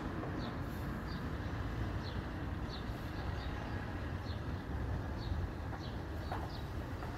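Steady low outdoor rumble with a small bird chirping over it, one short high chirp every half second or so.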